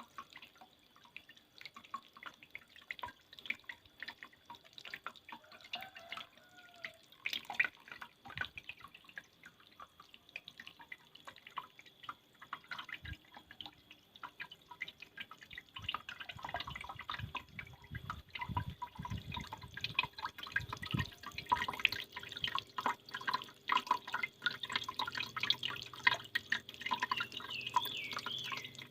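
Water dripping and trickling from a small homemade miniature waterfall. The drops patter sparsely at first, then grow denser and louder a little past halfway.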